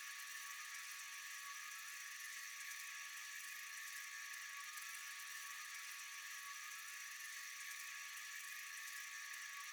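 Steady chorus of night insects: a dense, high-pitched chirring with a faint steady tone beneath it.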